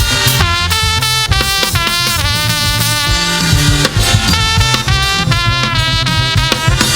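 Live gospel band playing an upbeat number, with brass horns over a drum kit.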